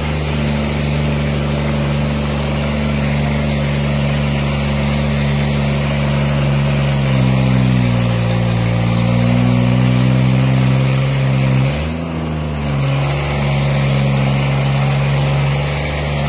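New Holland tractor's diesel engine running steadily under heavy load. About halfway through, its note shifts and wavers for a few seconds and dips briefly, then settles back to the steady pitch.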